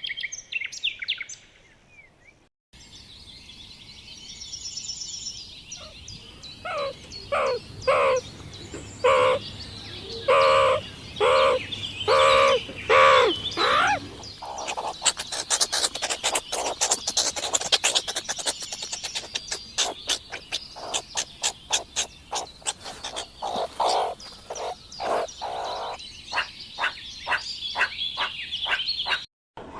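Animal calls: brief bird chirps at the start, then after a cut a series of loud calls about one a second, followed by a long fast train of short clicking calls.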